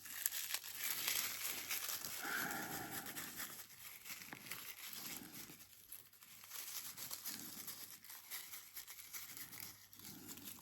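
Dry leaf litter being scrunched and crumpled by hand, a soft irregular crackling rustle.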